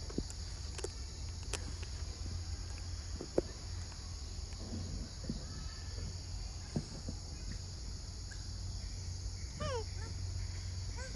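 Steady high insect drone from the forest over a low rumble, with a few faint clicks. Near the end, a bird gives a quick run of falling whistled notes.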